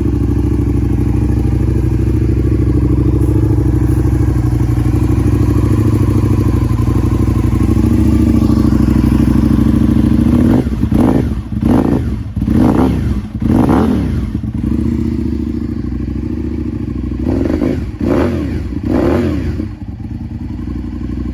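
2007 Aprilia Tuono Factory's V-twin idling steadily through its original silencers, which have been gutted so it sounds rorty. In the second half it is revved in a series of short throttle blips: about four in quick succession, then two or three more near the end.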